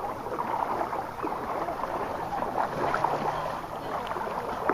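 Continuous sloshing and splashing of shallow floodwater, as of people wading through it on a flooded street.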